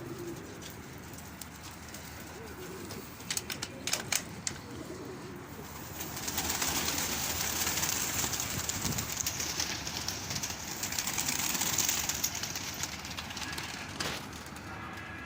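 Domestic pigeons cooing in a loft, with a few sharp clicks about three to four seconds in and a loud, even rushing hiss for several seconds in the middle.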